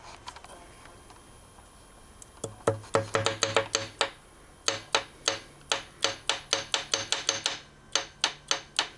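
Connecting rod in a 1999 Saturn SL2 engine clacking metal on metal as it is worked back and forth, in quick runs of several sharp knocks a second starting about two and a half seconds in. The free play in the rod bearing is the rod knock, which the owner places on cylinder number 2.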